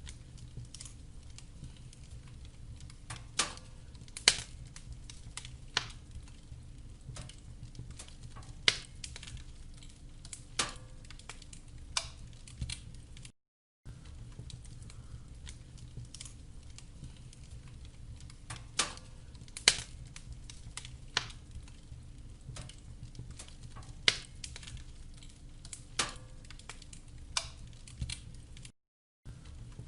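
Wood fire crackling in a fireplace: irregular sharp pops and snaps of varying strength over a steady low rumble. The sound cuts out to silence briefly twice, about halfway and near the end.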